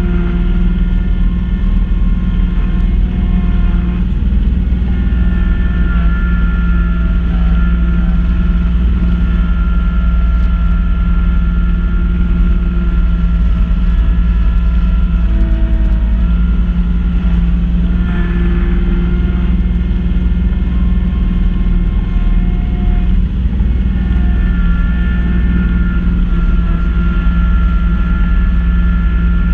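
Kubota B2650 compact tractor's diesel engine running steadily under load, driving a front-mount B2782 snow blower, with a whine that shifts in pitch every few seconds.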